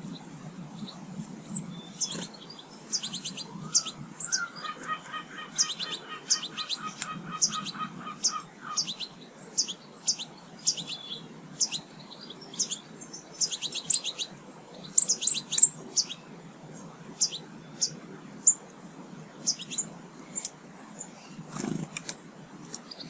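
Small garden birds at feeders giving short, high chirps, many in quick succession. From about four seconds in, a lower, rapid chattering call repeats for about four seconds.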